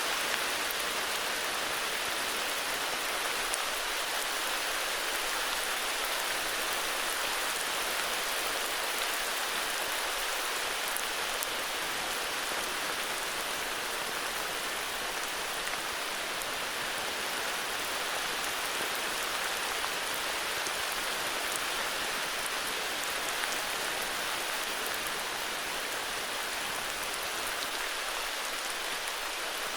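Heavy rain falling steadily, an even hiss with the fine patter of individual drops.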